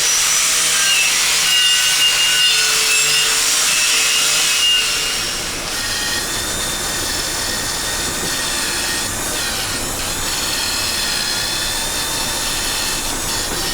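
Power tool spinning a wire brush against the bare steel face of a truck wheel, scouring off leftover paint chips: a steady motor whine over a harsh scratching. The whine drops a little in pitch about six seconds in.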